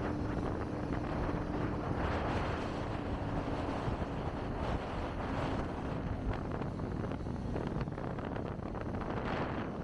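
Wind buffeting the microphone while riding a Kawasaki Ninja ZX-25R, with a steady hum underneath that fades out about six seconds in.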